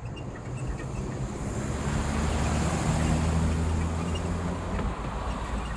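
A motor vehicle driving past on the road: engine hum and tyre noise swell to their loudest about halfway through, then fade as it moves away.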